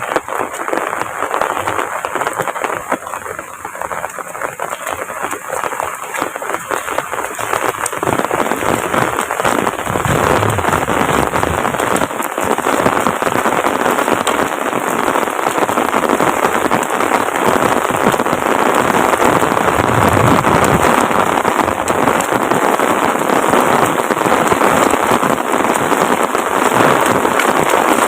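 Heavy rain falling, a dense steady patter of drops that grows heavier about eight seconds in.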